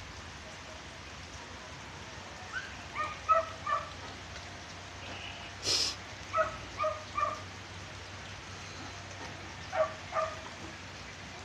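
A dog barking in short groups of two to four barks over a steady hiss of rain. A single sharp knock sounds about halfway through.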